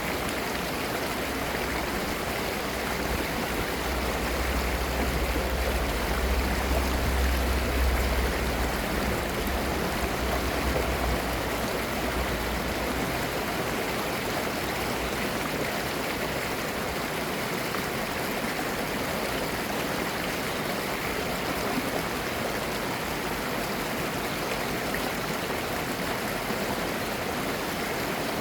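Valley stream running, a steady rushing and babbling of clear water. A low rumble swells under it for several seconds in the first half.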